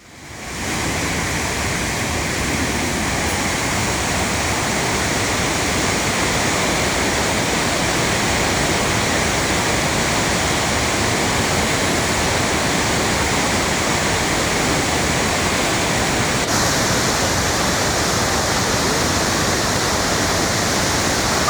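Waterfall in flood: a steady, loud roar of rushing water. It fades in over the first second, and the hiss turns abruptly brighter about sixteen seconds in.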